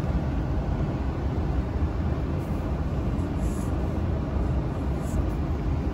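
Home furnace running, a steady low rumble with a few faint short scratchy sounds on top.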